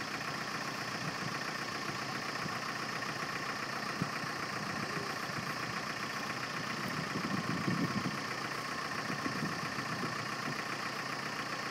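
Truck engine running steadily, swelling briefly about seven seconds in.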